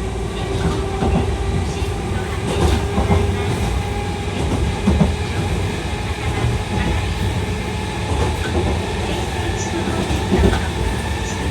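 Chikuho Electric Railway 3000-series articulated electric car running along the track: a steady low rumble of wheels on rail with scattered clicks, and a steady hum that fades out about three seconds in.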